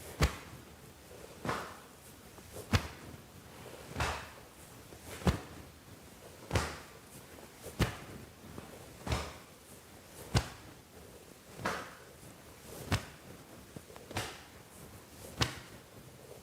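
Hands patting against the body in a steady swinging rhythm, about one pat every second and a quarter. The pats alternate between a sharp slap and a softer, duller one.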